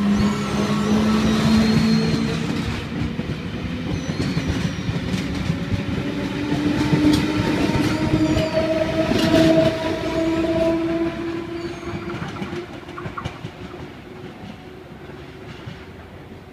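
Intercity V-set electric train pulling out of the platform: its motor whine climbs steadily in pitch as it gathers speed, with wheel clicks over the rails, then fades as the train moves away.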